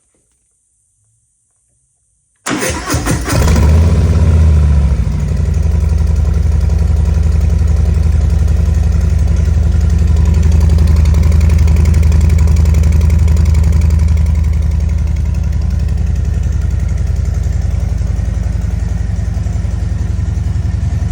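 Harley-Davidson Softail's Milwaukee-Eight V-twin, breathing through 3.5-inch Draculextreme slip-on mufflers, cranks briefly about two and a half seconds in and catches on a cold start. It then idles steadily and loudly, dropping to a slightly quieter idle about fourteen seconds in.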